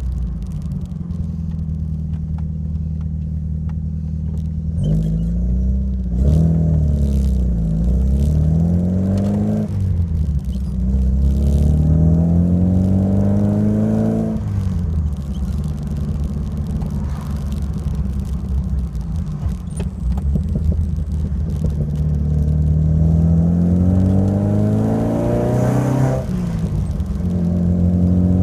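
Alfa Romeo Alfasud Sprint QV 1.5-litre flat-four boxer engine, through a stainless steel exhaust, idling steadily and revved several times. Each rise in revs climbs gradually and then drops back to idle, one held for several seconds before falling off quickly.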